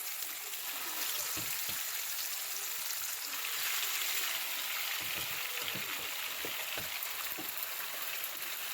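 Marinated chicken pieces frying in hot oil in a kadai: a steady sizzle with scattered crackles and pops.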